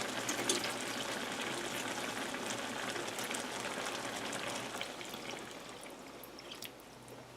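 Water being poured into a hot pan of meat patties and onions, with a steady pouring, sizzling hiss and scattered pops. The hiss fades away over the last two seconds or so.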